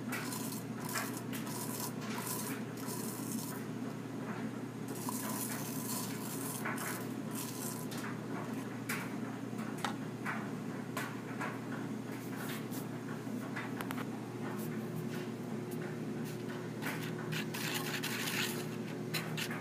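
Irregular scraping and clinking as thick, sandy paint is scooped out of its container onto a plate, over a steady low hum.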